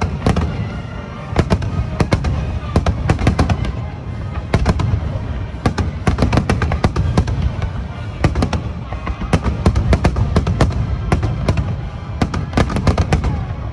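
A dense barrage of aerial firework shells bursting, many sharp bangs a second over a continuous low rumble, with music beneath.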